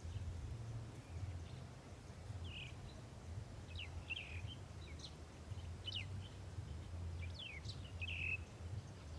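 Small birds chirping in short, quick, downward-sweeping calls, scattered and growing busier through the second half, over a low steady rumble.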